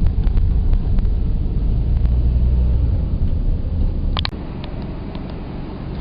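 Low rumble of a moving car, engine and road noise heard from inside. About four seconds in there is a sharp click, and after it the rumble is quieter.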